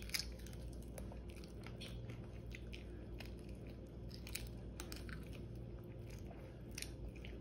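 A person chewing and biting crispy air-fried chicken wing, with faint, irregular small crunches and clicks.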